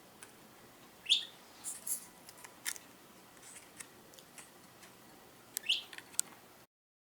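Budgerigar chirping: two short sweeping chirps, one about a second in and one near the end, among scattered faint sharp clicks. The sound cuts off suddenly just before the end.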